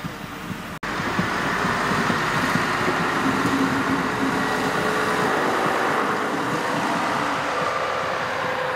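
ÖBB class 5047 diesel railcar passing close by over a level crossing, its engine and wheels on the rails making a loud, steady rumble that comes in abruptly about a second in.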